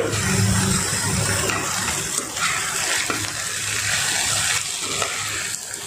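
Vegetables sizzling as they fry in oil in a non-stick kadai: a steady hiss, with a slotted spoon stirring them through the pan from about halfway in.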